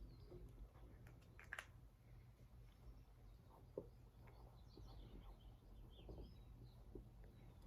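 Near silence: room tone with a low hum, a couple of faint clicks and a few faint high chirps in the middle.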